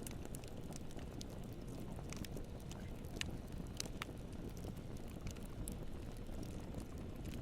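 Wood campfire burning: a steady low rumble of flames with irregular sharp crackles and pops, a couple of louder pops near the middle.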